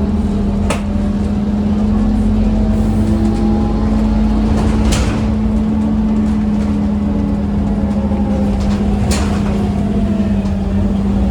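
Scania OmniCity bus engine running steadily, heard from inside the bus as a constant low drone. Three sharp clicks or knocks cut through it, about a second in, near the middle and near the end.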